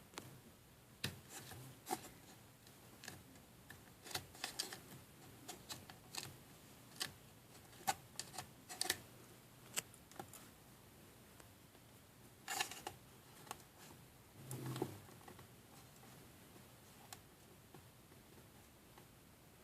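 Light clicks and taps of small plastic kit pieces being handled, irregular and scattered, with two slightly longer clattering bursts past the middle.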